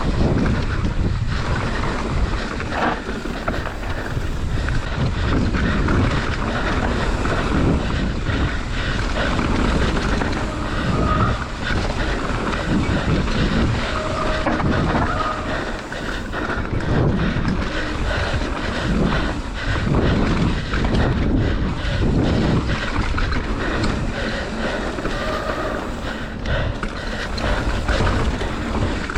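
Mountain bike riding down a rough trail: wind buffeting the microphone, tyres running over stones and the bike rattling continuously.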